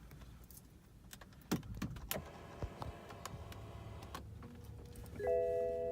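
Clicks and knocks of a 2012 BMW 528i's controls and doors, then a steady electronic chime tone that starts about five seconds in.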